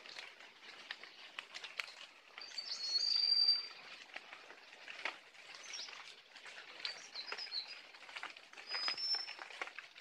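Wild songbirds chirping. A high, level whistled note about three seconds in is the loudest, with shorter chirps later on, over a steady crackle of small clicks.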